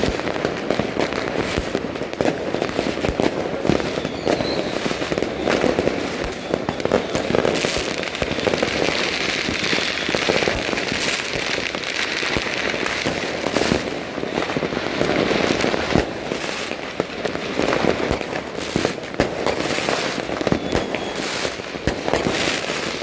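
Dense, continuous barrage of fireworks and firecrackers: many overlapping bangs, pops and crackles with no break.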